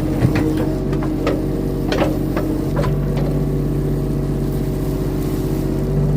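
Mini excavator's diesel engine running steadily under work, with several sharp knocks and clanks in the first three seconds as the machine digs.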